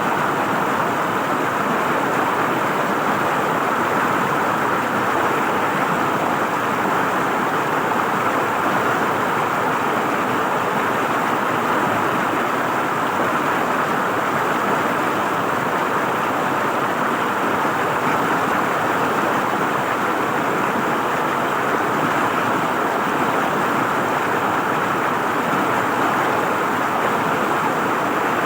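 River water flowing and gurgling over rocks, a steady, even rushing.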